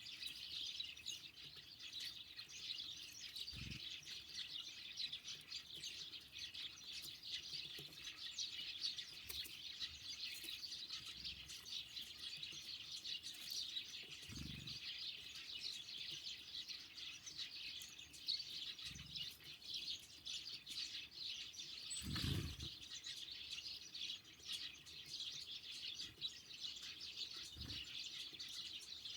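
Many small songbirds chirping and twittering in a dense, unbroken chatter. A few soft low thumps come through it, the loudest about 22 seconds in.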